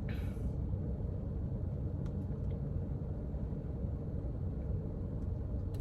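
Steady low rumble of background noise, with a short hiss at the very start and a few faint clicks.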